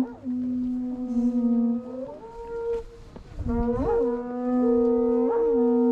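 A horn-like wind instrument blown in long held notes, broken briefly near the middle, with short upward swoops in pitch about three times in the second half.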